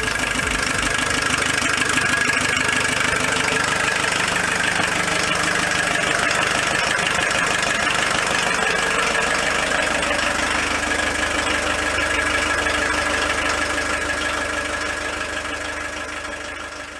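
VW T3 Westfalia camper engine idling steadily through its newly replaced exhaust front pipe. It fades out near the end.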